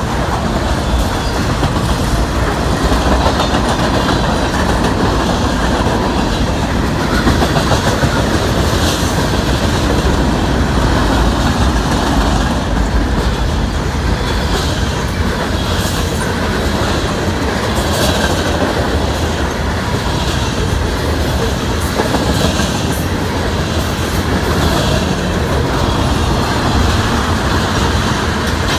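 Freight cars of a mixed train rolling steadily past, a continuous rumble with repeated clicks of wheels over rail joints.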